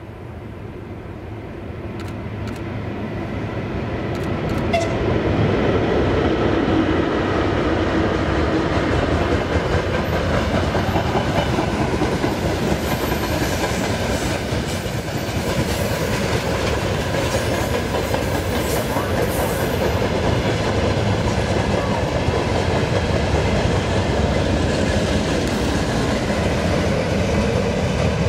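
VL11M electric locomotive hauling a freight train past, followed by its wagons rolling by with the wheels rumbling and clattering on the rails. The sound grows louder over the first five seconds as the train draws near, then stays steady as the wagons pass.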